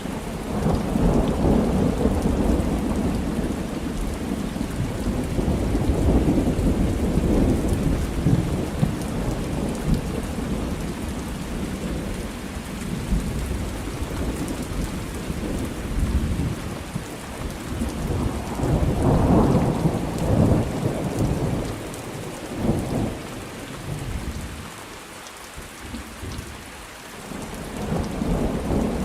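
Thunderstorm: long rolling thunder under steady rain. The rumble comes in suddenly at the start, swells again about two-thirds of the way through, eases off, and builds once more near the end.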